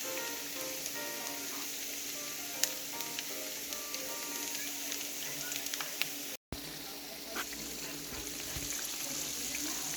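Food frying in a pan, a steady sizzle that drops out for a moment about six seconds in.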